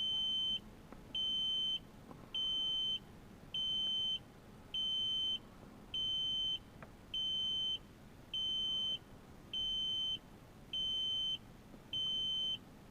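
Dashboard warning beeper in the cab of a 2001 Kenworth T300 dump truck, with the key on and the engine not yet started while the engine heat light is lit. It gives a steady high-pitched beep about once every 1.2 seconds, evenly spaced, about eleven times.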